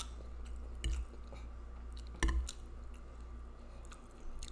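Close-miked wet chewing and mouth sounds from a mouthful of spaghetti with meat sauce, broken by a few sharp smacks or clicks, the loudest about one and two seconds in. A low steady hum runs underneath.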